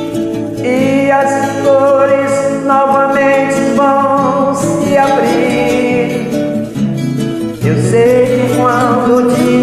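A song with a voice singing a held, wavering melody in two phrases over acoustic guitar accompaniment, with a short break just before the second phrase.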